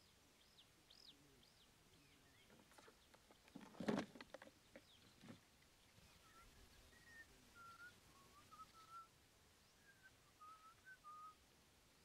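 Faint wild bird calls: a few high chirps near the start, then a string of short whistled notes in the second half. A single soft thump stands out about four seconds in.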